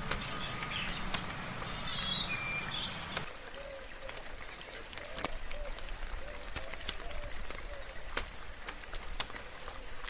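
Birds chirping over scattered raindrop ticks. A few high chirps come in the first three seconds; then a low background rumble drops away suddenly and a run of short, low, repeated calls follows, with a few high notes among them.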